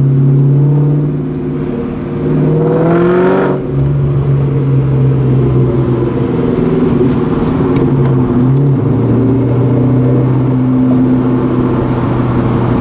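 2004 SVT Cobra's supercharged V8 through Borla Stinger mufflers and an off-road X-pipe, idling with one quick rev about three seconds in, its pitch rising and then cutting off sharply back to idle.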